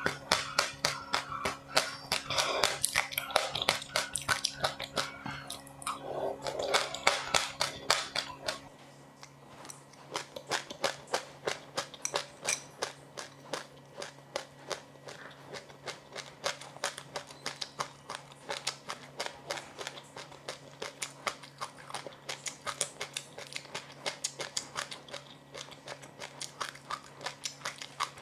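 A person chewing crunchy sesame-seed, flax-seed and rice-crisp snacks close to the microphone: a rapid, irregular run of crisp crunches, several a second.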